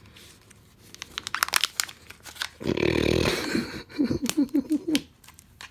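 Kinder Joy egg's plastic packaging crinkling and clicking as it is worked open by hand. Partway through comes a drawn-out voice-like sound, then a quick series of about six short pitched pulses.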